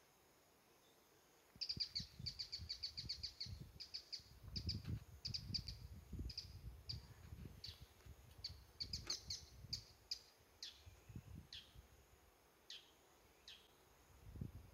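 A small bird chirping. About a second and a half in comes a quick run of high chirps, then single short notes dropping in pitch, scattered through the rest, over low rumbling on the microphone.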